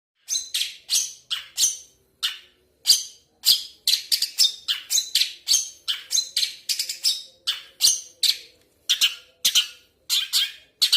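Long-tailed shrike (cendet) calling rapidly: a continuous string of short, harsh, scratchy notes, about three a second.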